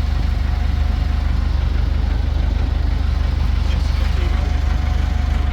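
An engine idling steadily with an even low rumble, with faint voices in the background.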